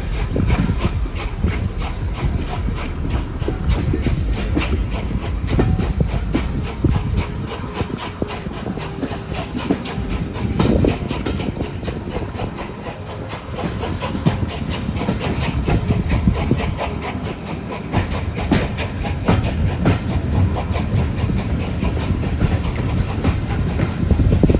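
Heritage railway train running along the line: a steady rumble with many sharp clicks and knocks from wheels passing over rail joints.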